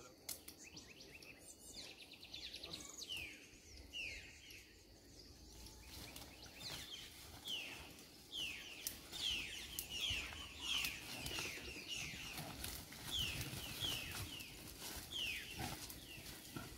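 Birds calling: repeated short chirps that sweep downward in pitch, coming thicker and faster from about six seconds in, over faint low rustling.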